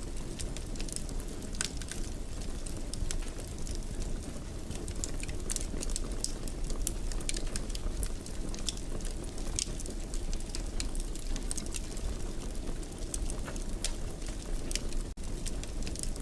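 Wood fire burning in a fireplace: a steady low rumble of flames with frequent small, irregular crackles and pops, and a split-second dropout near the end.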